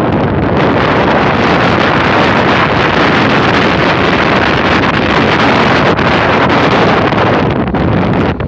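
Strong wind blasting the microphone: loud, steady wind noise with no let-up, easing a little near the end.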